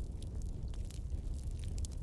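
Wood campfire burning with scattered sharp crackles and pops over a low steady rumble.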